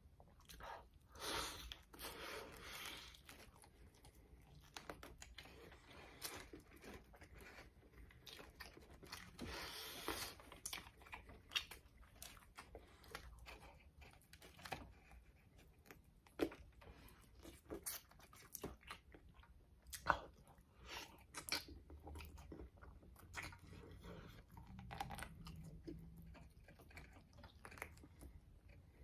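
Close-up eating of fried chicken on the bone: biting and chewing, with scattered short crunches and clicks.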